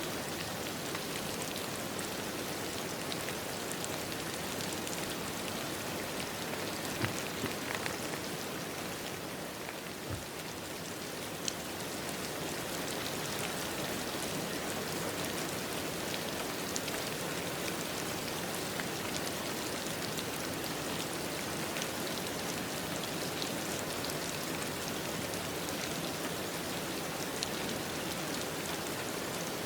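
Steady rain falling on a surface, an even hiss with scattered individual drops pattering.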